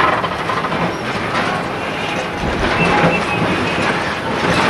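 Rail vehicle rolling along the track, its wheels clattering over the rail joints, with a faint squeal about halfway through.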